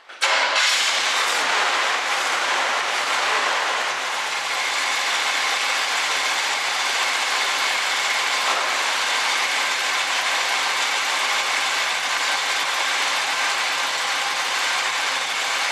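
1967 Chevrolet Camaro engine starting almost at once and settling into a steady idle, running on its newly replaced fuel pump.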